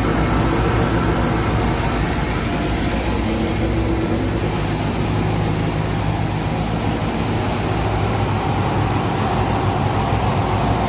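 Ferrari Mondial's V8 idling steadily, with the electric radiator cooling fan running. The fan has been switched on by its thermostat because the engine is hot.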